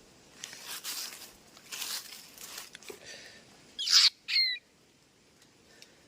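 A captured bird being handled: two spells of rustling, then two loud, harsh squawks close together about four seconds in.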